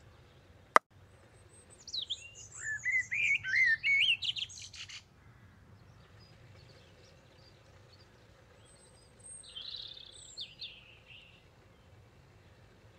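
A single sharp click just under a second in, then birds chirping: a busy run of quick up-and-down notes for about three seconds, and a shorter spell of chirps later on.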